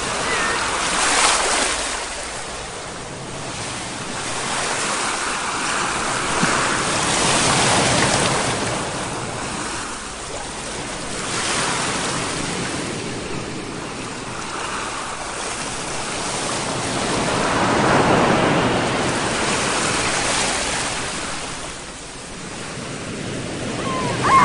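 Ocean waves surging and receding in slow swells every few seconds, with a brief high chirp near the end.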